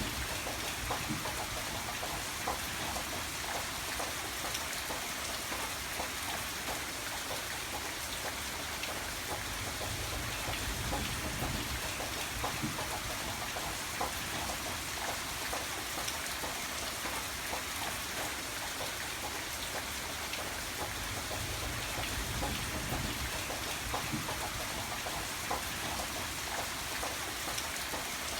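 Steady rain, with individual drops ticking on a surface over an even hiss.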